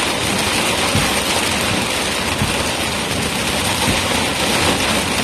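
Heavy rain pouring on a moving vehicle: a steady, even hiss with faint low thuds throughout.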